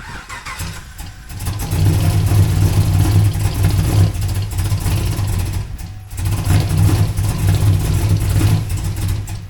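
Chevrolet Camaro's LS3 V8 cranked and catching after about a second and a half, then running with a misfire; the owner suspects the driver's-side bank, whose headers stay cold. The running note drops out briefly about six seconds in, then comes back.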